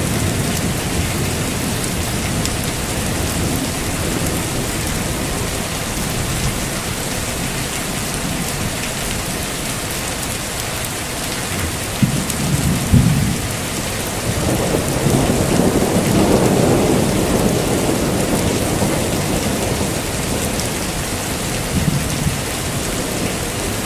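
Heavy rain falling steadily, with thunder rumbling. A short low crack comes about halfway through, and a longer rolling rumble follows from a couple of seconds later.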